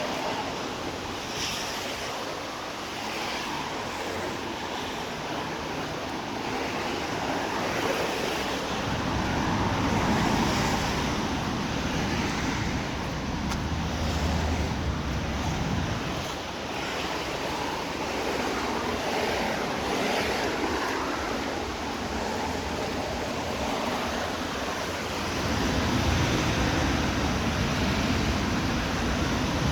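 Traffic on a rain-soaked street: tyres hiss and throw spray off the wet road, the noise swelling with a low rumble each time cars pass close.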